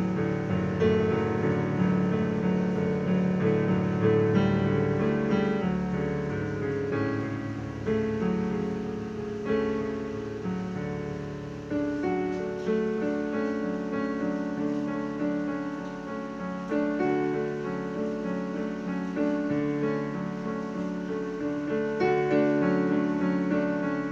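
Piano music: notes and chords held and changing every second or so.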